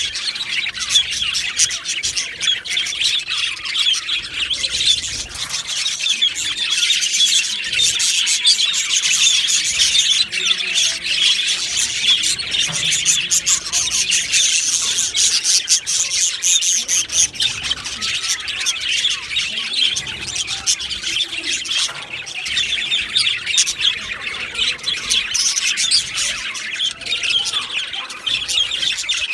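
A flock of budgerigars chattering continuously, many birds at once overlapping in a dense mix of chirps, warbles and squawks.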